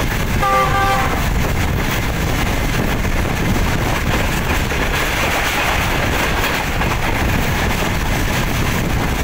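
Steady rumble and rush of a moving passenger train, heard from aboard a coach. The locomotive's horn sounds briefly, a chord of steady tones, about half a second in.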